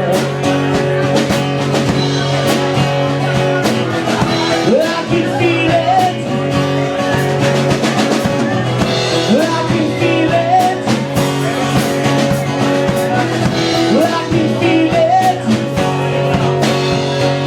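Live rock music: guitar and drum kit playing with a steady beat, with a few sliding, bending notes over the top.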